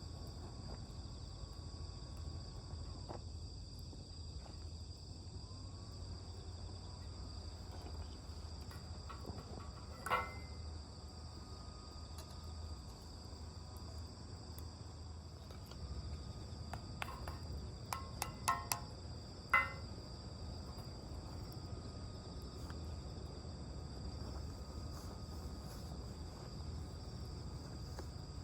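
Crickets or other autumn insects trilling steadily, over a low outdoor rumble, with a few short sharp clicks about ten seconds in and again near two-thirds of the way through.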